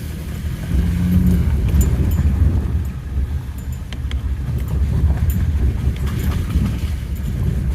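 Vehicle driving along a rough dirt two-track, a steady low rumble with scattered clicks and knocks from the bumpy ground.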